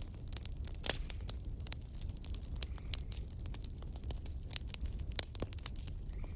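Wood fire crackling: irregular sharp pops and snaps over a steady low rumble, with one louder pop about a second in.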